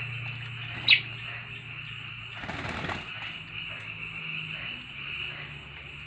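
A bird gives one sharp, loud falling chirp about a second in; a little later, a short burst of splashing and wing-flapping as a small black bird bathes in a basin of water.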